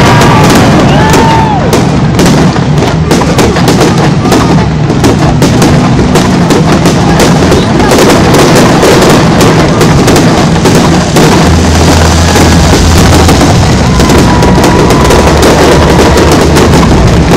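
Fireworks display: aerial shells bursting loudly in rapid, nearly continuous succession, many bangs a second.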